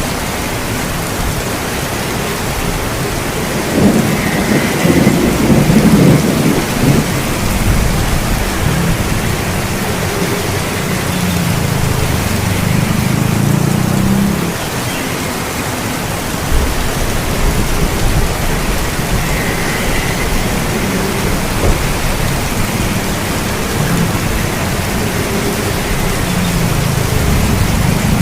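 Steady rain with thunder rumbling. The loudest roll comes about four seconds in and lasts a few seconds, and softer rumbles swell up later.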